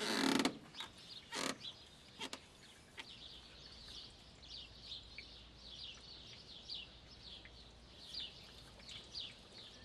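A small bird chirping over and over, short high notes that slide down, about two or three a second. A louder knock in the first second and two lighter knocks soon after, from work on the tractor's oil filters.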